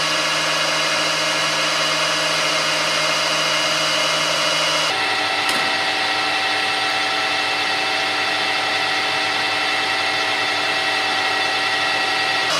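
Metalwork lathe running steadily while turning a nylon bar, a steady motor hum with a cutting hiss. About five seconds in the hum changes pitch all at once, with a brief click just after.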